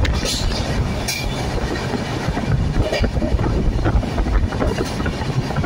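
Train running through a station, heard from on board: a steady low rumble of wheels on rails, with a few short clicks from the rail joints now and then.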